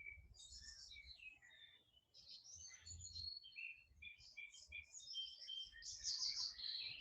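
Faint songbirds chirping and singing, a busy run of short high notes from more than one bird, thickest near the end.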